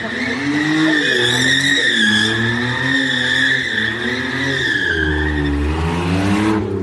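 Car tyres squealing in one long, slightly wavering squeal over an engine revving up and down, as in a stunt car drifting or spinning doughnuts. The squeal fades out about five and a half seconds in while the engine runs on.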